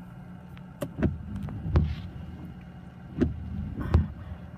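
Car windshield wipers sweeping, with a thump at each end of the stroke, two thumps about 0.7 s apart repeating about every two seconds. Underneath is the steady low hum of the idling engine.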